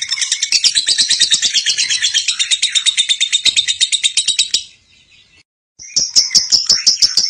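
Lovebird singing a long, rapid, high-pitched chattering trill (the 'ngekek' song). It breaks off abruptly about four and a half seconds in and starts again about a second later.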